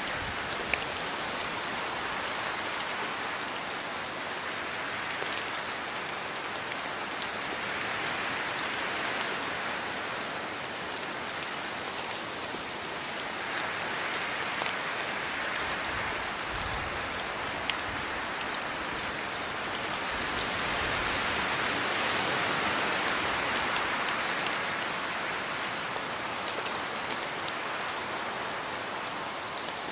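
Steady rain falling on outdoor surfaces, with scattered sharper drop hits. The rain swells a little about two-thirds of the way through.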